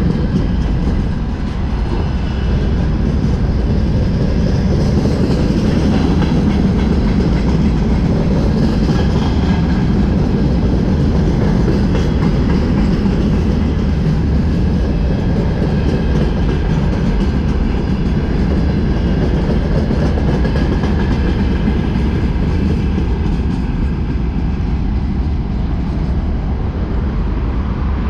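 Freight train wagons (tank cars, boxcars, hoppers and gondolas) rolling past on the track alongside: a loud, steady rolling noise with wheels clacking over the rail joints. It eases off over the last few seconds as the end of the train goes by.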